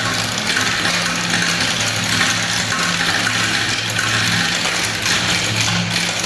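Many marbles rolling and clattering continuously down a plastic spiral marble run track, over a steady low mechanical hum.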